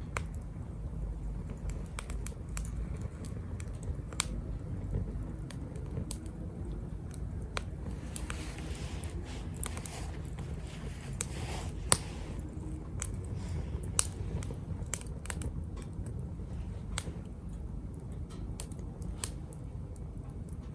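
Small wood fire burning in a Captain Stag Kamado Smart Grill B6, crackling with frequent sharp pops and two louder pops past the middle, over a steady low rumble. For a couple of seconds near the middle it hisses.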